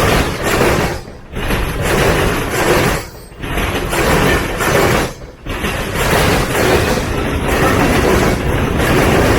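Freight train cars rolling past close by: a loud steady rumble and clatter of wheels on rail, dipping briefly about every two seconds in the first half, then running on unbroken.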